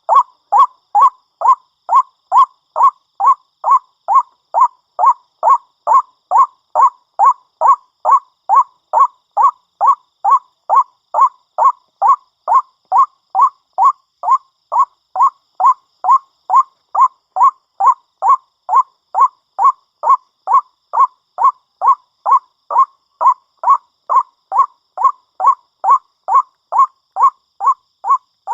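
White-breasted waterhen (ruak-ruak) calling over and over in a steady, even rhythm of about two short calls a second.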